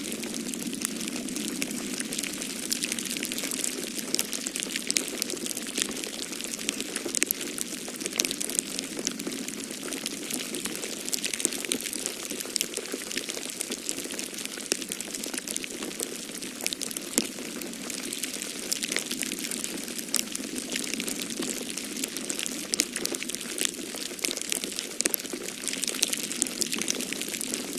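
Wood fire in a fireplace crackling, with frequent small sharp pops, over a steady low rush of snowstorm wind.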